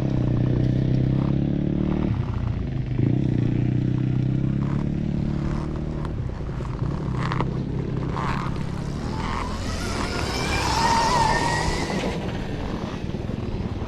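Trail motorcycle engine running at a steady pitch. It dips briefly about two seconds in and turns quieter from about six seconds. Around ten seconds a hiss with a faint whine comes up for about two seconds.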